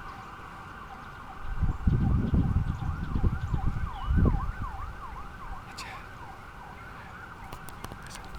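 Distant emergency-vehicle siren wailing in quick repeated rising-and-falling sweeps. A low rumble joins in from about a second and a half in until about four and a half seconds.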